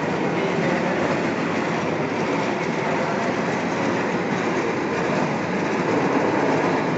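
Lathe machine running steadily, an even continuous mechanical noise with no pauses or changes in level.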